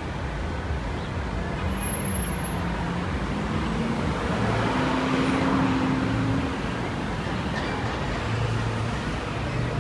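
City street traffic: a steady wash of road noise. A vehicle passes close about halfway through, its engine hum swelling and then fading.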